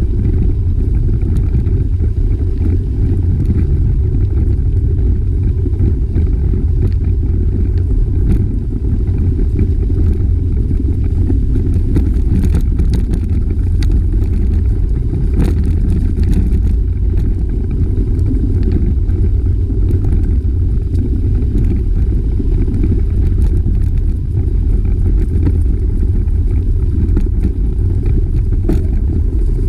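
Steady low rumble of wind buffeting the microphone of a camera riding along on a bicycle, with a few light clicks and rattles from the bike partway through.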